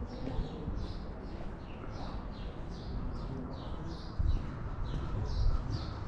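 Small birds chirping over and over, short high notes that slide downward, two or three a second, over a low outdoor rumble with a brief thump about four seconds in.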